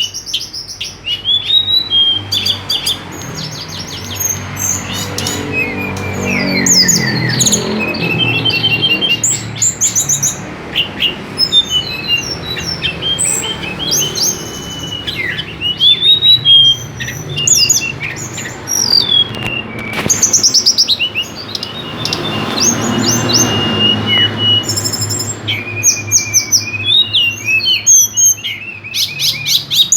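A songbird singing continuously: a long, varied run of quick chirps, rapid trills and whistled rising and falling phrases.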